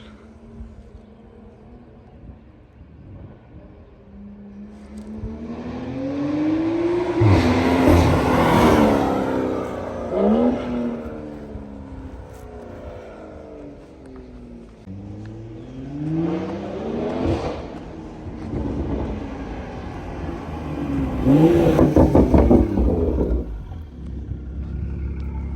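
BMW M340i's turbocharged inline-six (B58) through a CTS downpipe and AWE Touring exhaust, accelerating hard: the engine note climbs in pitch and drops at each upshift. It swells loudest about seven seconds in and again about twenty-one seconds in.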